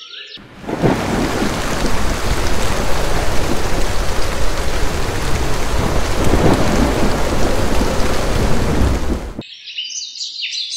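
Rain-and-thunder storm sound effect: steady heavy rain with a low thunder rumble. It starts abruptly under a second in and cuts off suddenly about nine seconds in, giving way to light chiming music.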